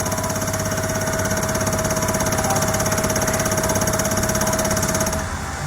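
Stall-warning stick shaker on a Pilatus aircraft rattling with a fast, even buzz, along with a steady warning tone; both stop about five seconds in. This is the stall-protection system signalling an approaching stall during a ground test.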